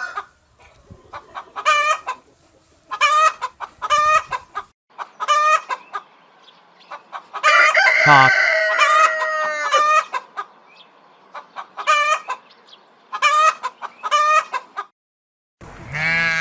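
Chickens clucking in short repeated calls, with a rooster crowing once in the middle, followed by more clucking.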